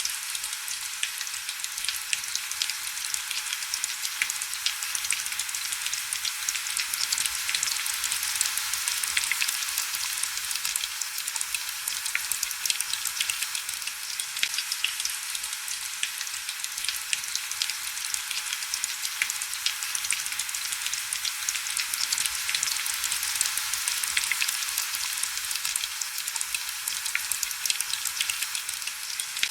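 Heavy rain falling steadily: a dense, even hiss of drops, thick with fine ticks, with hardly any low rumble.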